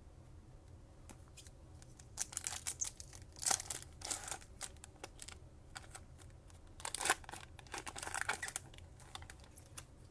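A foil wrapper on a pack of Panini Mosaic football cards being torn open and crinkled, with the cards handled, in two bouts of irregular rustling and tearing: one starting about two seconds in, another about seven seconds in.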